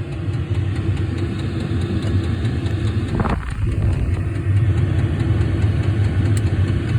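Diesel air heater running steadily after ignition, glow plug off, its combustion and blower fan making a steady low hum on setting 3. A brief short noise about three seconds in breaks the hum for a moment.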